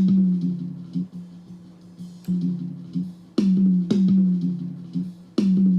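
A recorded drum track played back from a multitrack session, carried by tom hits that each ring out at a steady low pitch, with fainter cymbal and snare spill from the kit between them.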